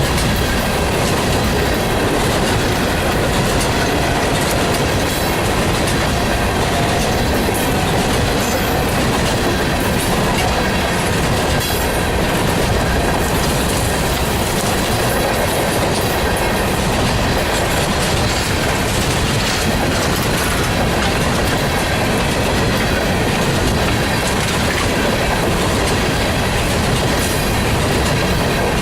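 A long string of empty coal hopper cars rolling steadily past, their wheels clicking over the rail joints, with a faint steady squeal from the wheels.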